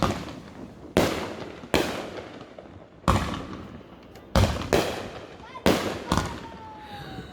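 Fireworks display: seven aerial shells bursting with sharp bangs, irregularly spaced, two pairs coming close together, each bang followed by a trailing echo.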